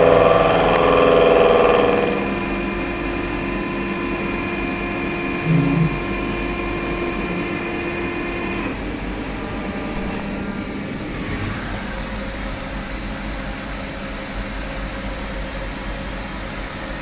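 Indexable shoulder milling cutter cutting C45 steel on a horizontal machining center; the cut ends about two seconds in. The machine then runs on with a steady hum and whine that drops about nine seconds in, with a brief thump near the middle.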